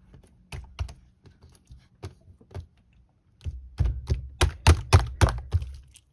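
Hands pressing and poking slime, making a run of sharp clicks and pops. They are sparse at first, then come thicker and louder from about halfway through.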